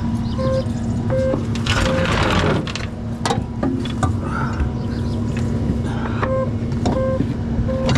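Vehicle engine running steadily, with short beeps that come in two sets of three, early and near the end, and a brief hiss about two seconds in.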